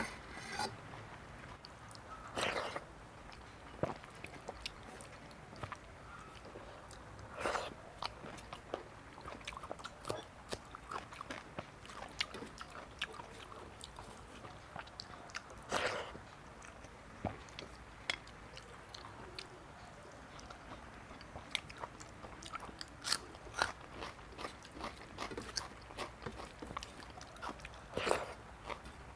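Close-miked eating: a person chewing rice and curry with small wet mouth clicks, broken by four louder crunchy bites spread through the stretch, from crisp sides such as papad.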